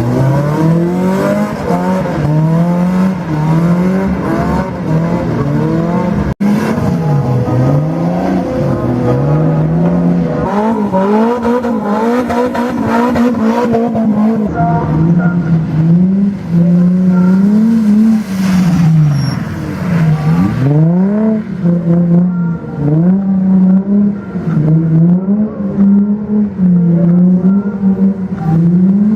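Car engine revving hard on a drift pad, its pitch rising and falling again and again as the throttle is worked through slides, with some tyre squeal. There is a brief sudden drop-out about six seconds in.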